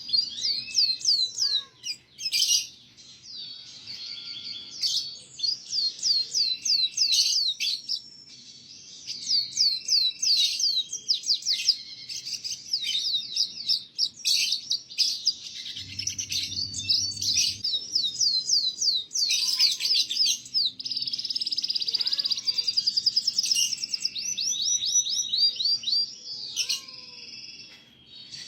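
Domestic canary singing a long, fast song of rapid trills and runs of quickly repeated down-slurred notes, with hardly a break.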